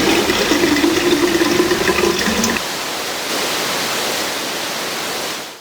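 Vacuum tanker truck with a steady rushing sound like liquid or air being drawn through, over a droning hum. The hum drops away about two and a half seconds in; the rush carries on and then fades out at the end.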